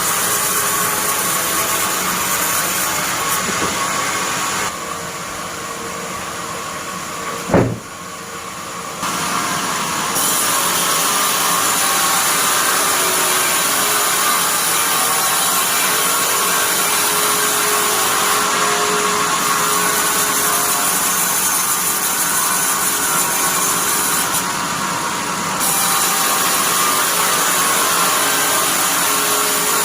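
Sawmill bandsaw running and sawing pine into thin planks: a steady, loud machine noise with a high hiss from the blade. A single sharp knock comes about seven and a half seconds in, and the saw noise drops for a few seconds around it.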